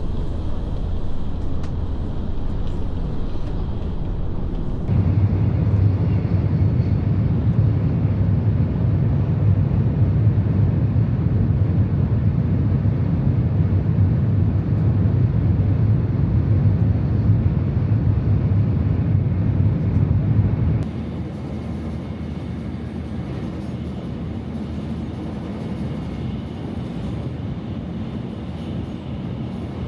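Shinkansen bullet train at speed, heard from inside: a steady low rumble of running noise. It jumps louder suddenly about five seconds in and drops back just as suddenly about twenty-one seconds in.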